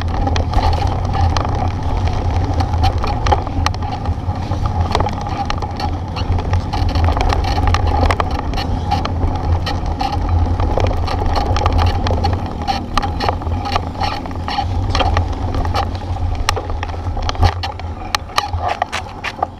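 Steady low rumble of a bike ride with frequent rattles and knocks as the bike jolts over a rough road, hard enough that the road broke the bike seat.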